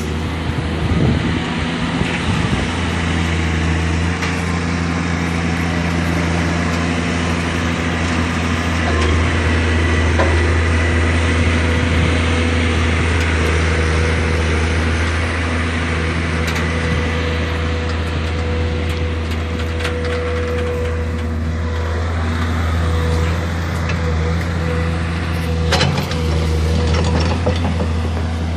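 Excavator's diesel engine running steadily, with a few sharp knocks near the end.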